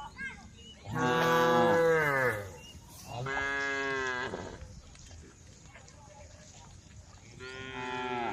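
A cow mooing three times: a long, loud call about a second in that falls in pitch, a shorter call about three seconds in, and a third near the end.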